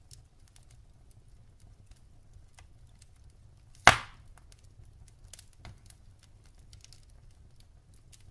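Wood fire crackling: scattered small crackles over a low steady rumble, with one loud sharp pop from the burning logs about four seconds in.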